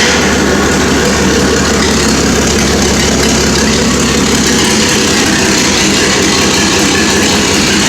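1954 Mack gasoline engine idling steadily.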